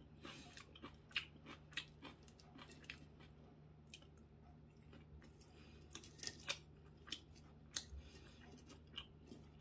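Faint chewing and biting of fried pork cutlet, with scattered small clicks of chopsticks.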